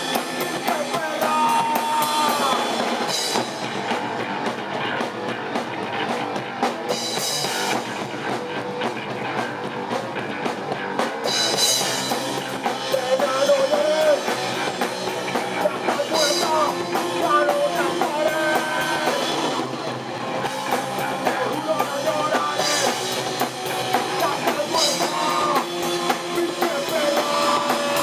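Rock trio playing: electric guitar, bass and a drum kit, with the drums prominent throughout.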